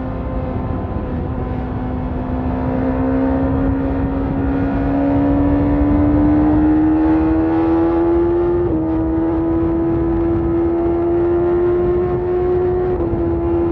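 BMW S1000RR inline-four engine running through an Akrapovic carbon exhaust. Its pitch climbs slowly and steadily, with small dips about nine seconds in and again near the end, over a low rumbling noise.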